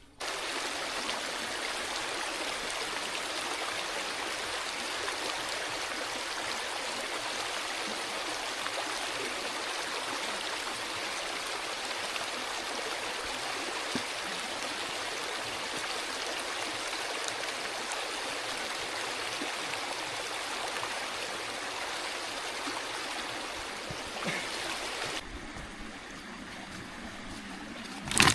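Steady rush of a flowing stream that cuts off abruptly about 25 seconds in, leaving a quieter background. A sharp knock near the end.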